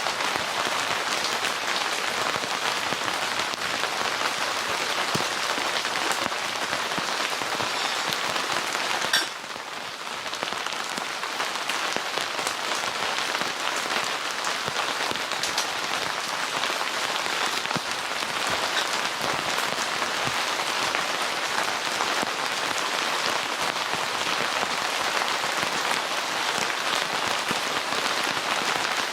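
Steady rain falling, a dense patter of many individual drops. About nine seconds in the sound dips suddenly and builds back within a second or so.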